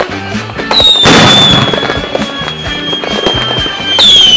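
Fireworks: a high whistling rocket starts under a second in and holds a nearly steady pitch for about three seconds, a crackling burst comes about a second in, and a second whistle begins near the end, falling in pitch. Background music plays underneath.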